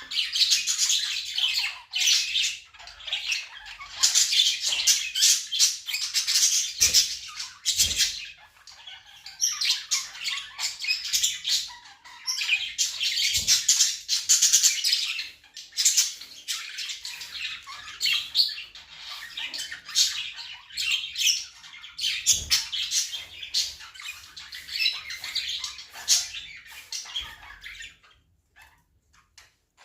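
Pet birds chattering and squawking in rapid, high-pitched bouts a few seconds long, with short pauses and a few brief low thumps. The chatter falls quiet near the end.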